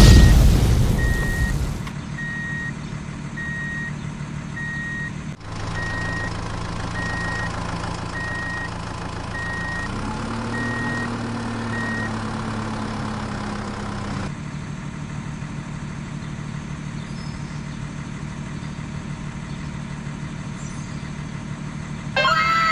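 A heavy truck engine running with a reversing alarm beeping steadily about one and a half times a second, after a loud boom at the start that fades over a couple of seconds. The engine note rises partway through, and the beeping stops. The engine then cuts out, leaving a lower hum, and a short burst of falling pitched tones comes right at the end.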